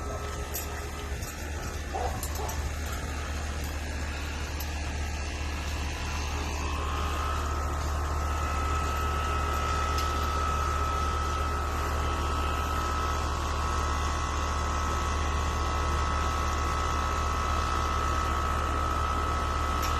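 A few short puppy yips in the first few seconds over a steady low mechanical hum. About seven seconds in, a steady high-pitched whine joins the hum and holds.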